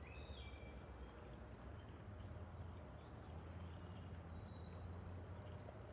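Small birds chirping in short high whistles, a few sliding downward in the first second and more scattered later, over a faint steady low rumble of outdoor background noise.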